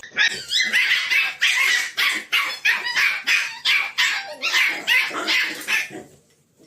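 A dog giving a rapid run of short yips and barks, about three a second, which stop abruptly about six seconds in.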